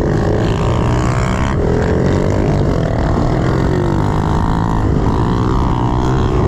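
110cc pit bike's single-cylinder four-stroke engine running hard around a dirt track, its pitch rising and falling with the throttle, with sudden drops about a second and a half in and again near five seconds.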